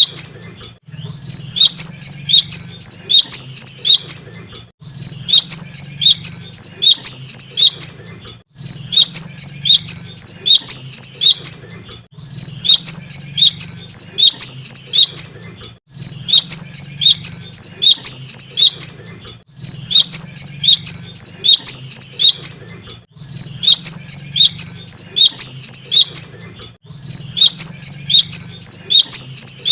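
Cinereous tit (gelatik batu) singing a fast run of high chirps. It sings in phrases about three seconds long, each followed by a brief pause, repeating at a steady pace about eight times.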